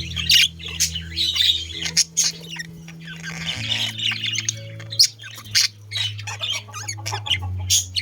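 Budgerigars chattering continuously with harsh squawks and chirps, several sharp, loud calls standing out, the loudest about five seconds in.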